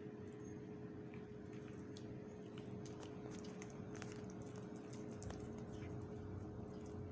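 A cat chewing fried chicken: faint, scattered small clicks and smacks over a steady hum.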